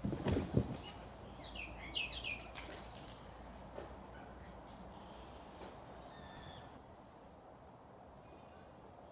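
Outdoor bird calls: a few quick falling whistles about two seconds in, then faint high chirps. A few low thumps come right at the start.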